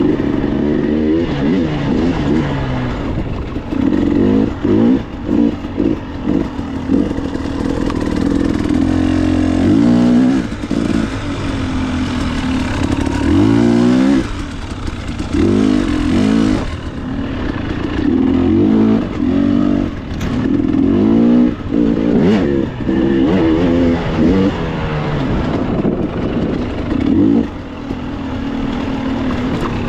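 KTM dirt bike engine being ridden hard, revving up and easing off again and again, its pitch rising and falling every second or two.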